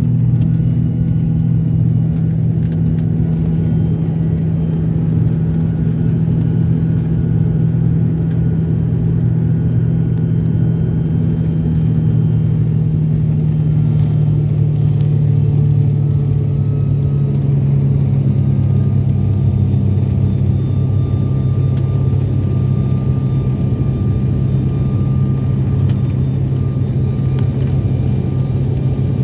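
Airliner engines and airflow as a loud, steady low drone, with the pitch of the hum shifting slightly a little past halfway.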